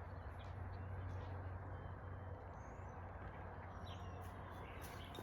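Faint outdoor ambience: a steady low hum and hiss, with a few faint, short bird chirps now and then.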